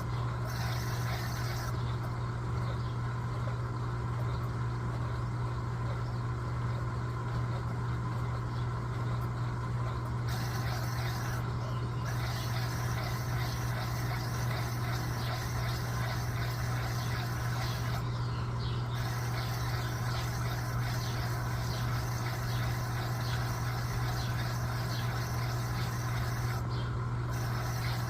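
Electrolux LTA15 agitator washing machine running through a wash cycle: a steady low motor hum throughout, with a higher hiss that comes and goes every few seconds.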